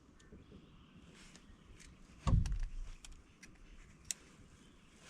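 A single dull thump about two seconds in, amid scattered light clicks and ticks.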